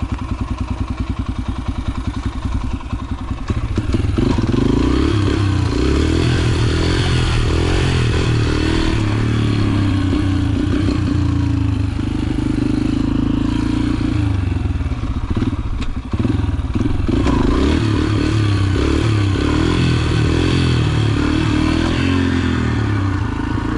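Yamaha TT-R125 dirt bike's single-cylinder four-stroke engine running at a low, even pulse for about four seconds, then getting louder and rougher as the bike rides on, with some clatter over the ground.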